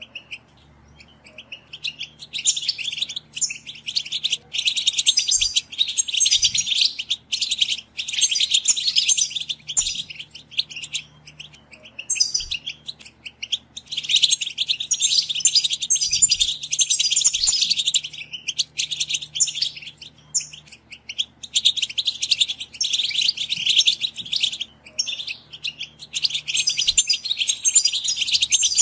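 A group of European goldfinches chattering together: fast, dense twittering in long bouts broken by short pauses, ending abruptly.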